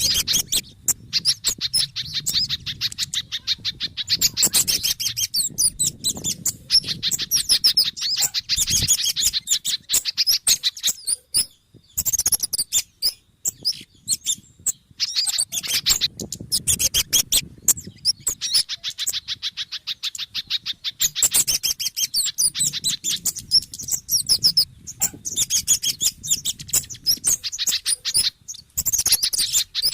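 Lure recording of agitated small-bird calls, kemade, sogon and spiderhunter (pijantung) mixed together: dense runs of rapid, high chirps and chip notes that break off briefly twice, near the middle and near the end.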